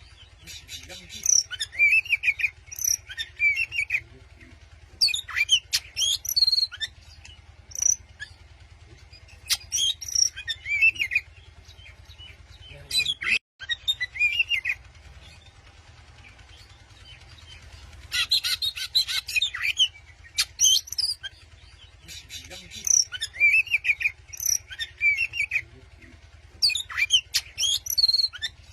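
Oriental magpie-robin (kacer) singing: a series of short phrases of sharp chirps and whistles with rising and falling notes, broken by brief pauses, with one denser burst of song partway through. It is the kind of aggressive, challenging song used to provoke a rival. A steady low hum runs underneath.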